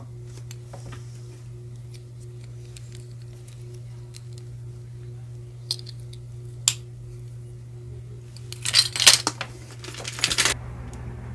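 Costume jewelry pieces being handled and dropped into a box: a couple of single clicks in the middle, then about two seconds of dense clinking and rattling near the end, over a steady low hum.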